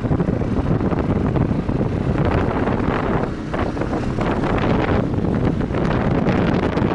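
Heavy wind buffeting the microphone on a moving motorcycle, a steady loud rumble, with the Viper V250C cruiser's running and road noise underneath.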